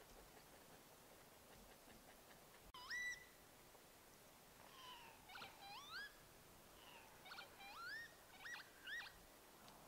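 A bird calling over a quiet background: one rising whistled note about three seconds in, then a run of about eight rising whistled notes from about five to nine seconds in.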